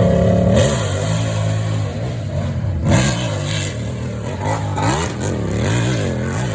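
Hillclimb motorcycle engine revving hard, its pitch dropping just after the start and then surging up and down in quick throttle swings, with a sharp crack about three seconds in.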